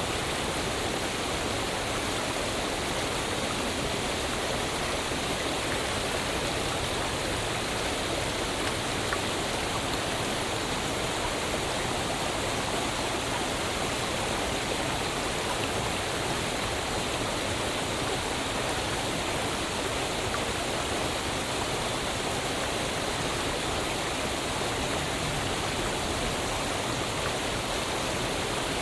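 Waterfall, falling water rushing with a steady, even hiss and no pauses or changes.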